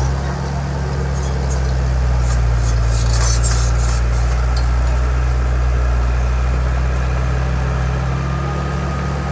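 Heavy diesel engine of construction machinery running steadily close by, a deep even drone, with light metallic clinks and rattles about two to four seconds in.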